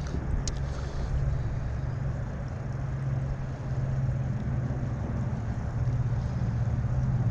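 Steady low rumble of highway traffic passing overhead.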